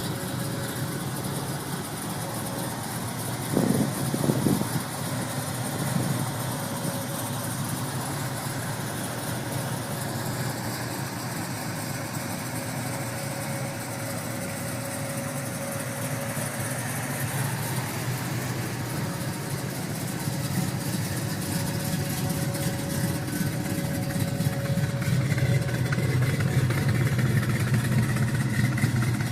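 A car engine idling steadily, blipped briefly twice about four and six seconds in, and growing louder toward the end.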